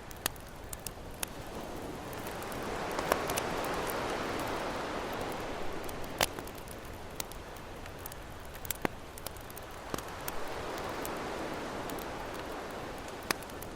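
Campfire crackling with scattered sharp pops over ocean waves washing in, the surf swelling and fading twice.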